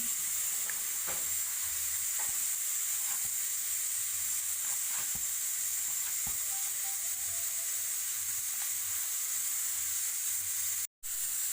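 Steady high-pitched hiss with a few faint soft ticks, cutting out completely for a moment near the end.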